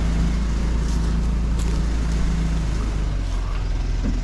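Heavy vehicle engine running steadily at low revs, a deep even drone with a slight regular pulse.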